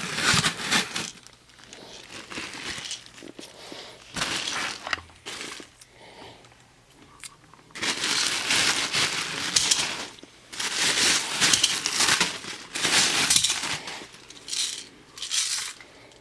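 Crinkly plastic packaging being handled, rustling and crackling in irregular bursts with short pauses, loudest in the second half.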